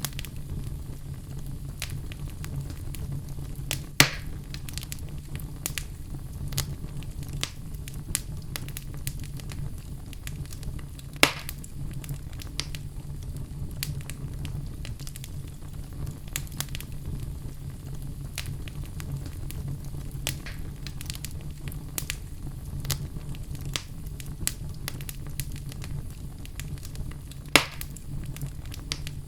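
Wood fire burning in a fireplace: a steady low rumble of the flames with frequent scattered crackles, and three louder pops from the logs about 4, 11 and 27 seconds in.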